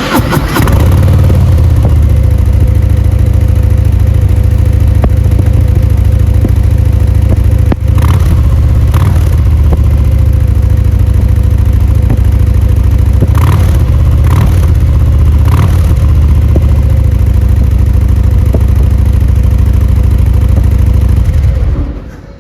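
Harley-Davidson Fat Boy's 1923 cc Milwaukee-Eight 114 V-twin running with a loud, steady, deep exhaust rumble. A few short, sharper blips come between about 8 and 16 seconds in. It stops shortly before the end.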